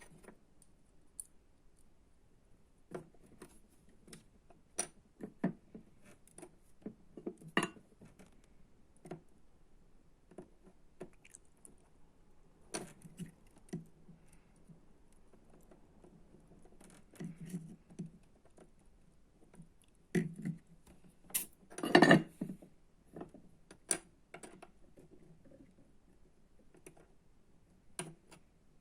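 Irregular small clicks, taps and light clatter of small tools and electronic parts being handled on a workbench, with a louder clatter about two-thirds of the way through.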